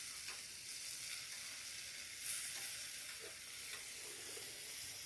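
Meat frying in a pan: a steady sizzle with small crackles, swelling briefly louder about two seconds in.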